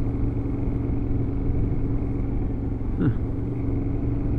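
Motorcycle engine running at a steady cruise with wind and road noise, heard from the rider's own bike; a brief faint gliding sound about three seconds in.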